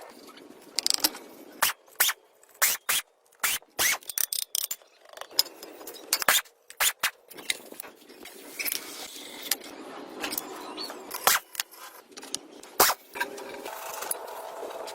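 Hand work on parts: a run of irregular sharp clicks, taps and knocks with scraping in between, like tools and small metal parts being handled.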